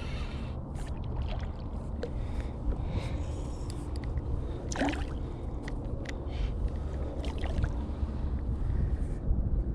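Kayak on the water: scattered light knocks and splashes over a steady low rumble.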